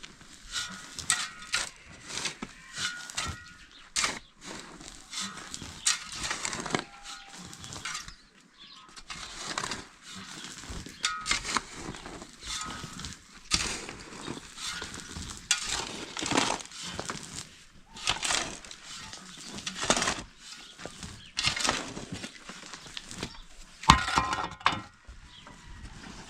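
Irregular knocks and crashes of demolition work, with material breaking and rubble falling.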